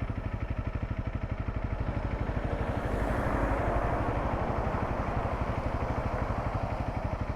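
Motorcycle engine idling with an even pulse, swelling a little about three seconds in.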